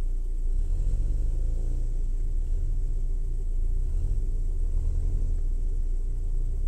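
Car engine idling, heard from inside a car's cabin: a steady low rumble.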